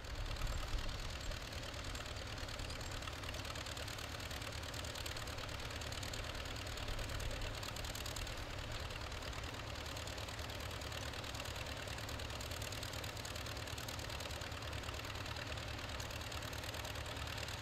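Vintage tractor engine running steadily as it pulls a trailed plough.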